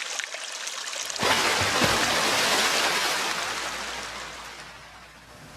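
A rushing, water-like noise starts abruptly with a low thud about a second in, then fades away slowly toward the end.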